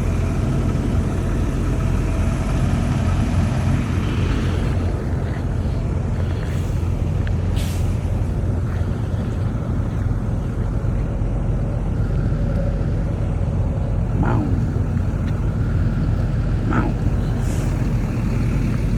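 A vehicle engine running steadily, a constant low rumble, with a couple of faint short squeaks late on.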